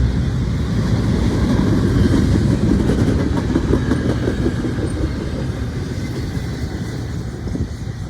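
Intermodal freight train cars rolling past with a steady rumble and the clatter of steel wheels over the rails, easing off slightly toward the end.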